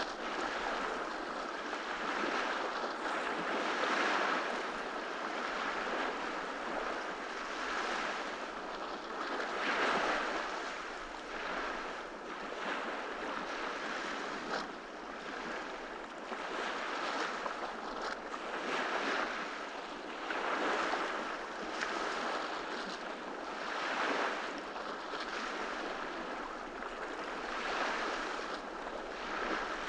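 Ocean waves breaking and washing up on a beach, a steady surf hiss that swells every few seconds as each wave comes in.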